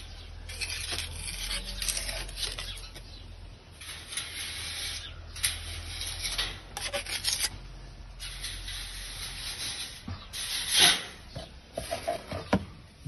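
Repeated rough scraping and rubbing strokes, a trowel working wet concrete mortar over mesh-covered frames, coming in bursts with short pauses and one louder scrape near the end, over a low steady hum.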